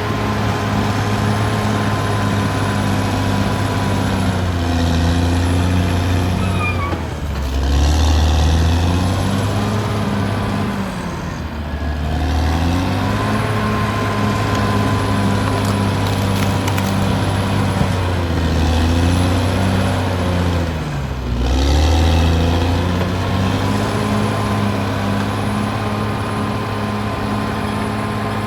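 Caterpillar D6R XL bulldozer's diesel engine working steadily. Its engine speed sags and recovers three times.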